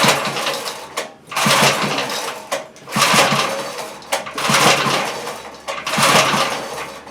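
Small 5 hp tiller engine being pull-started with its recoil cord, about five pulls in a row, each one briefly spinning and sputtering the engine before it dies away without catching.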